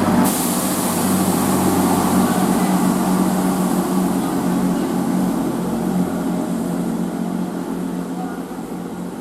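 Diesel train engine running with a steady low hum, fading gradually as the train moves away.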